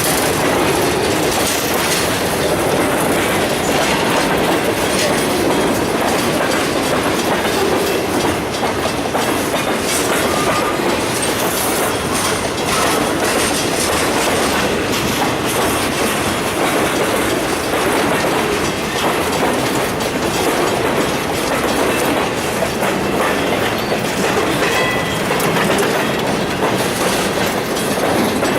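Freight train cars rolling steadily past, their wheels clacking over the rail joints.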